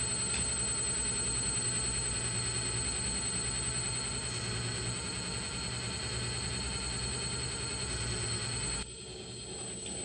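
Small electric hydraulic pump of an RC hydraulic system running with a steady whine. Its level drops suddenly about nine seconds in, as the load on the pump changes.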